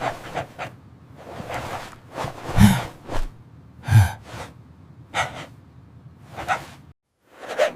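A cartoon dog's breathy huffs, gasps and snorts, coming every second or so, the two loudest about two and a half and four seconds in.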